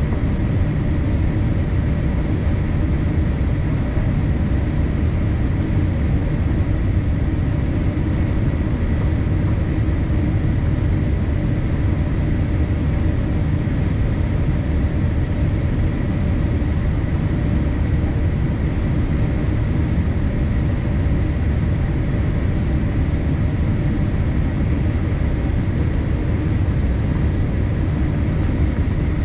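Steady cabin noise of a Boeing 787-8 in flight: an even, unchanging rush of engine and airflow noise, with a faint steady whine on top.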